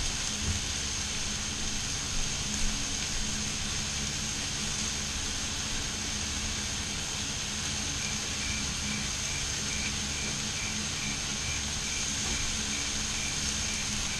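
Food sizzling steadily on a griddle: chicken breasts, salmon fillets and chopped vegetables frying, over a low steady hum. A faint high beeping, about two a second, starts about halfway through.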